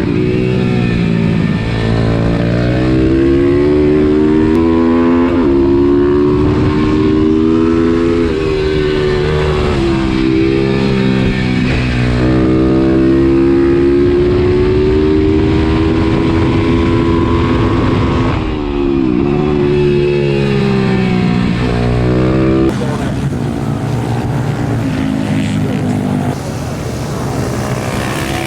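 Pit-bike supermoto engine revving hard while racing, its pitch climbing and then dropping sharply at each gear change, over and over.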